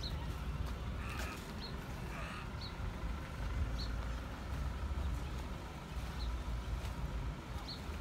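A bird's short, high chirps, repeated about once every second or so, against a steady low rumble.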